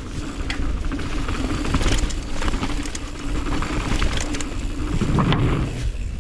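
Mountain bike ridden fast down a dirt trail and over a kicker jump, heard from an action camera on the rider: wind rushing on the microphone, tyre noise, and the chain and frame rattling over bumps, with a steady low hum through most of it.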